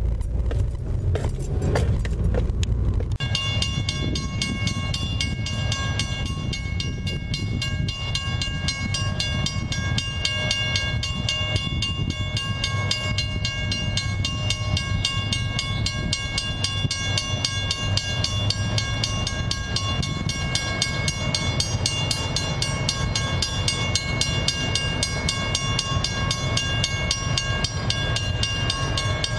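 Freight train passing close by: a deep locomotive rumble for the first few seconds, then the cars rolling past with a steady stream of wheel clicks on the rails. From about three seconds in, a high-pitched steady whine rides over it to the end.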